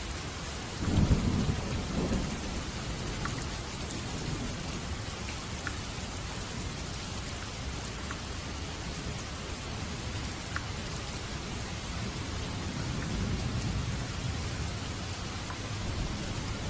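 Steady rain falling, with a low rumble of thunder that swells loudly about a second in and fades over the next couple of seconds, and a softer rumble later on.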